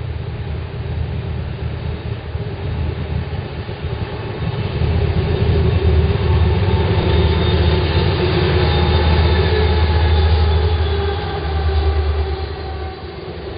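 Diesel-hauled freight train passing close by: a heavy low rumble that swells as the locomotive approaches, is loudest for several seconds as it goes by, then eases as the boxcars roll past.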